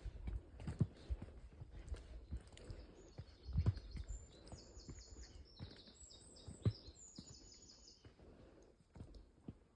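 A bird singing rapid runs of repeated high notes for several seconds from a few seconds in, over scattered low knocks and rumble.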